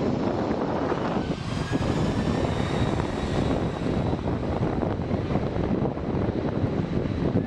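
Airliner engine noise: a steady loud rush with a thin whine, mixed with wind on the microphone.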